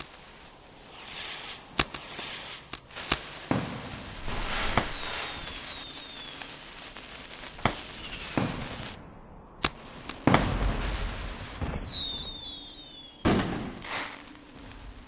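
Fireworks going off: about seven sharp bangs scattered among long hissing rushes, with shrill whistles that fall in pitch twice, about five and twelve seconds in.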